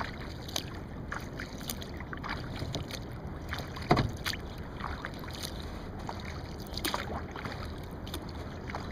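Kayak paddle strokes: water splashing and dripping off the paddle blades, with a louder splash about four seconds in, over a steady low rumble.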